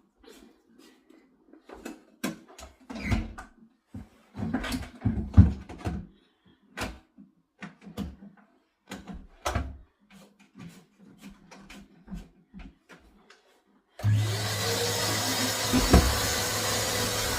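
Knocks and clicks of a vacuum cleaner being handled, then about fourteen seconds in its motor is switched on and spins up to a steady whir.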